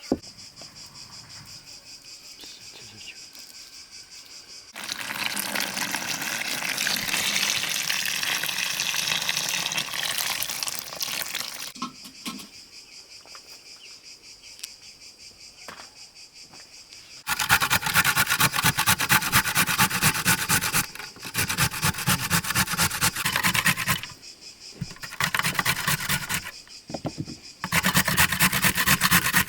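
Repeated bursts of rapid rasping, scraping strokes, each a few seconds long with short pauses between.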